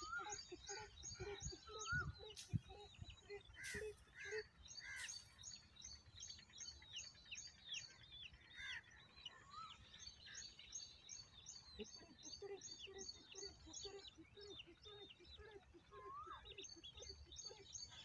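Faint birdsong from several birds: fast trains of high repeated chirps and scattered sweeping whistled calls. A few sharp clicks in the first five seconds.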